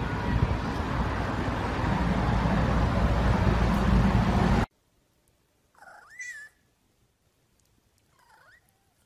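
A loud, steady rushing noise that cuts off suddenly, followed by a cat meowing once, with a fainter second meow near the end.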